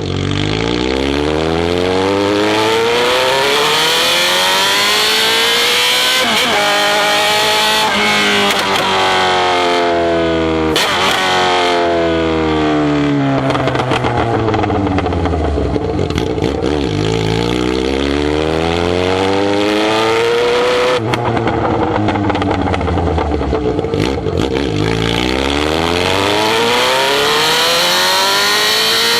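Motorcycle engine running loud, its pitch climbing for several seconds and falling again, three times over, as it revs up and comes back down.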